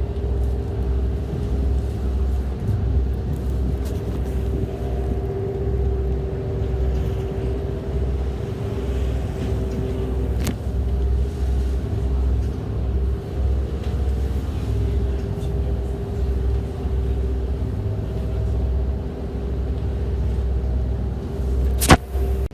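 Engine running steadily: a low rumble with a steady hum over it. A faint click comes about halfway through, and a sharp, louder click comes near the end.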